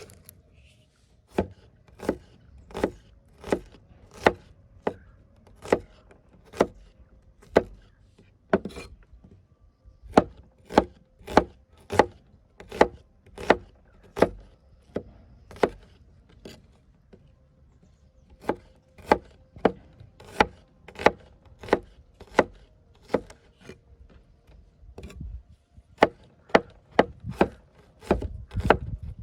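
Knife chopping on a wooden cutting board in steady, even strokes, about one to two a second, speeding up in places, with a pause of about two seconds partway through.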